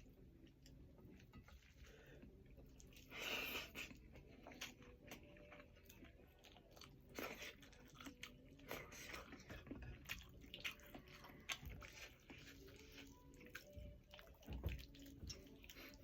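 A person chewing and biting meat close to the microphone, faint, with irregular clicks and wet mouth sounds; the loudest bite comes about three seconds in.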